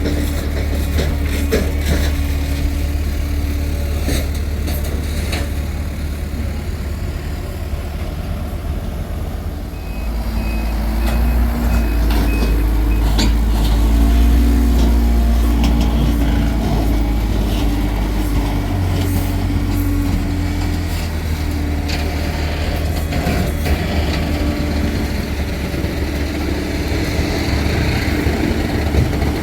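Heavy work vehicle's engine running steadily, getting louder about a third of the way in as it works. A reversing alarm beeps in a short run of even beeps at the same time.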